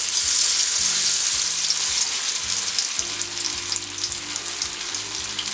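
Cheese dog coated in crushed prawn crackers deep-frying in hot oil at 190 degrees: a dense, steady sizzle with the prawn-cracker coating crackling away.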